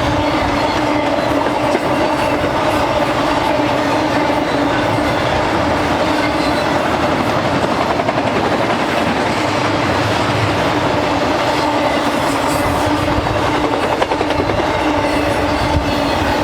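Freight train cars rolling past, a steady loud rumble of wheels on rail with clickety-clack, and a steady pitched drone under it that fades in the middle and comes back near the end.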